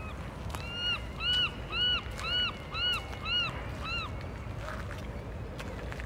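A bird calling: a run of about seven short notes, each rising then falling in pitch, a little under two a second, over steady low outdoor background noise.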